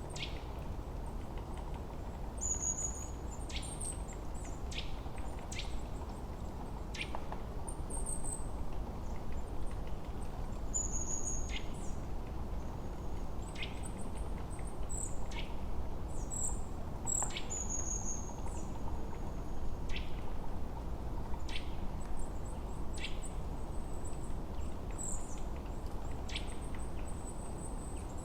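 Forest ambience: small birds giving short, high chirps and quick calls every second or two over a steady low rushing background.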